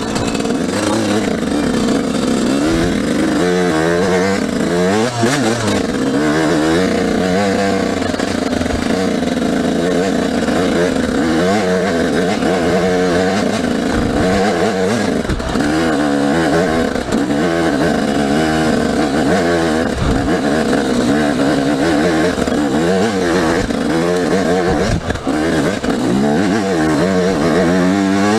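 Dirt bike engine being ridden, its pitch rising and falling again and again as the rider gives it gas and backs off, pulling away from first gear.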